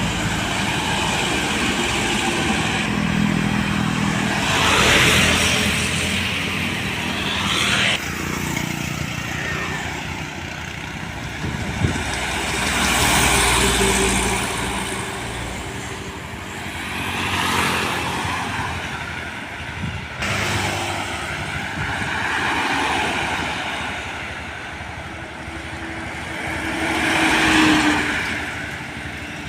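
Road traffic with heavy vehicles such as trucks and buses driving past one after another, about six passes, each swelling up and fading away. A steady engine hum is heard in the first few seconds.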